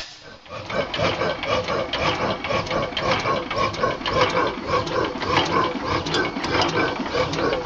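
1918 14 hp Waterloo Boy hit-and-miss gas engine running without a muffler, giving a fast, even, rhythmic clatter of exhaust and valve gear.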